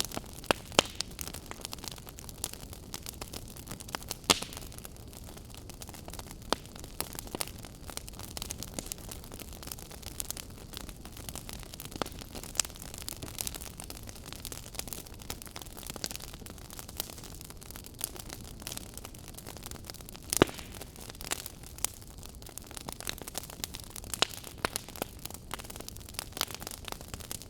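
Wood fire burning in a fireplace: steady low hiss with irregular sharp crackles and pops, a few louder snaps among them.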